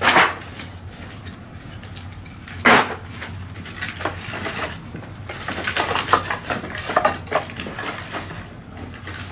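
Hard objects clattering and knocking, with two loud, short crashes (one at the start and one under three seconds in) followed by a run of smaller clicks and knocks.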